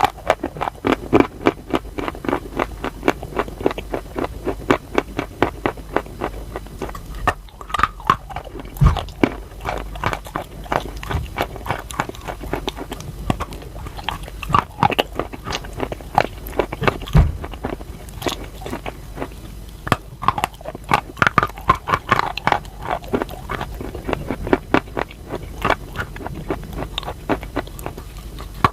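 A person biting and chewing crunchy chalk close to the microphone: a dense run of rapid crackling crunches, several a second, with a few heavier bites.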